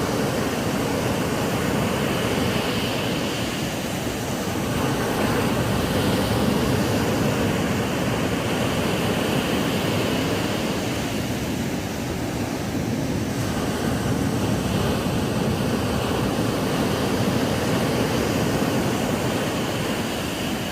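Ocean surf washing onto a sandy beach: a continuous rush of waves that slowly swells and eases.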